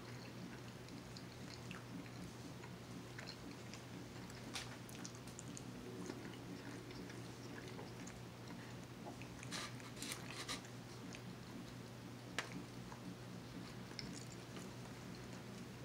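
Chewing and mouth noises of someone eating a cheeseburger and fries, with scattered soft clicks and crackles, a cluster of them about ten seconds in.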